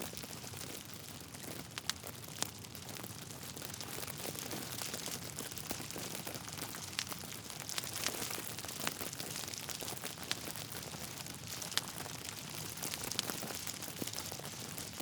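Log fire crackling steadily, with several sharp pops from the burning wood scattered through it.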